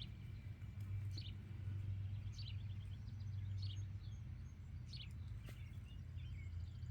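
Small birds chirping in short calls about once a second, with a quick trill of notes in the middle, over a steady low rumble.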